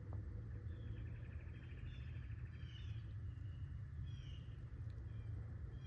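Outdoor ambience of a bird calling in short, slightly falling chirps that repeat every half second to a second, over a low rumble.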